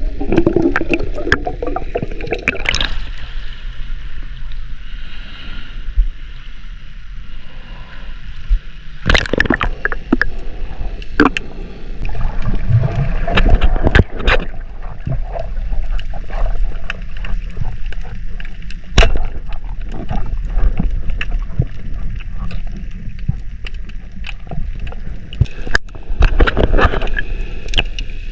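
Water sloshing and gurgling around the camera, with frequent sharp knocks and splashes scattered through it and a steady low rumble beneath.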